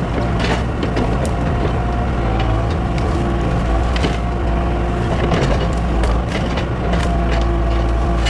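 A large engine running steadily under load, with frequent sharp cracking and snapping of wood being broken up.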